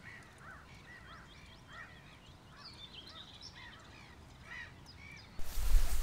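Many birds calling on a lake, short arched calls repeating and overlapping. A sudden loud rumbling noise takes over near the end.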